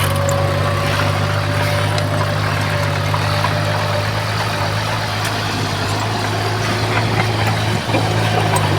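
Diesel engine of a heavy earthmoving machine, likely the Komatsu bulldozer, running at a steady speed with a low, even drone.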